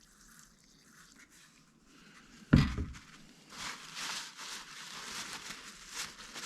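A single solid knock on the bench about two and a half seconds in, then an uneven, hissy rustling noise from cleaning a transmission solenoid.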